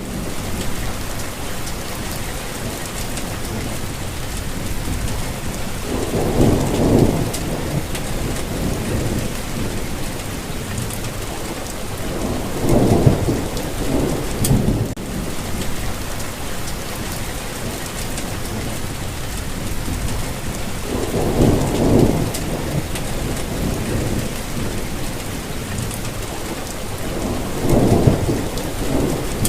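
Steady rainfall on surfaces, with low rumbles of thunder swelling and fading about four times.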